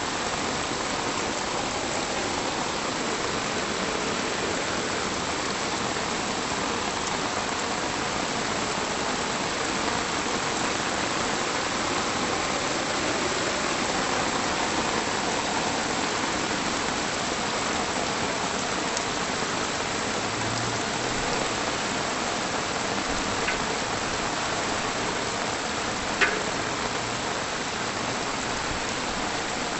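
Steady rain falling, a continuous even hiss of drops, with a single sharp tap about 26 seconds in.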